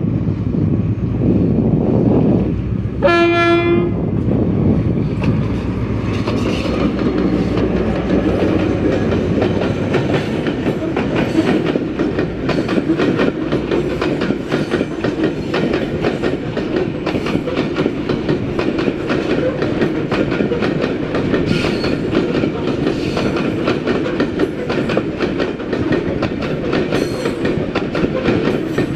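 A GMU-30 diesel locomotive sounds one short horn blast about three seconds in and runs past with its engine rumbling. Then loaded coal wagons roll by close at about 38 km/h with a steady clickety-clack of wheels over rail joints.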